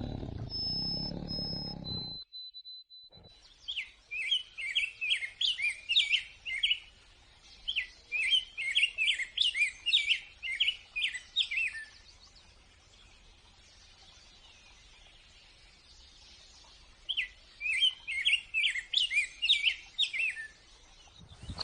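The end of a tiger's roar fading out over the first two seconds, then, after a short break, a songbird singing quick runs of high chirps in three bursts, with pauses between them.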